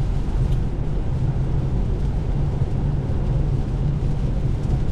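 Steady road and tyre noise of an electric Tesla Model 3 at highway speed on a rain-soaked road, heard from inside the cabin as an even low rumble with a wet hiss above it.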